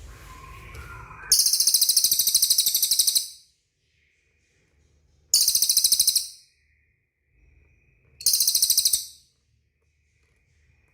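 A small bird giving three loud, high-pitched, rapid buzzy trills: the first about two seconds long, the next two about a second each, with short pauses between.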